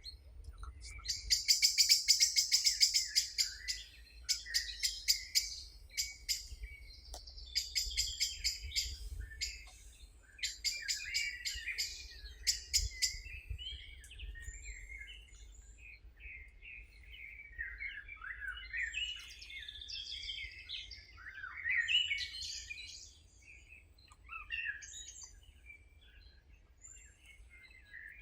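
Several songbirds singing: fast trilling bursts in the first half, then scattered chirps and short warbled phrases, over a faint low rumble.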